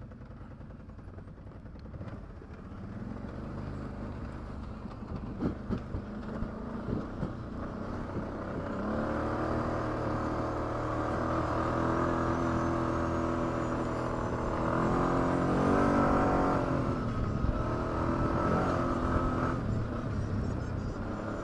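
ATV engine pulling at low speed on a trail, its note getting louder and steadier partway through and rising, then falling, about two-thirds of the way in. A few knocks come in the first third.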